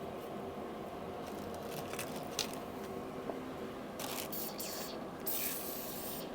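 Two short hisses, the second longer, about four and five seconds in, over a steady low mechanical hum, with a few light clicks of handled parts before them.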